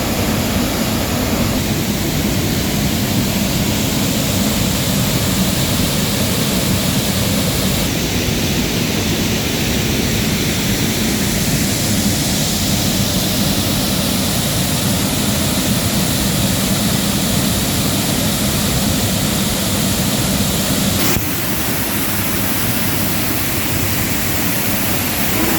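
Waterfall plunging into its pool, heard up close as a loud, steady rushing roar of falling water and spray. The roar steps down a little about twenty seconds in.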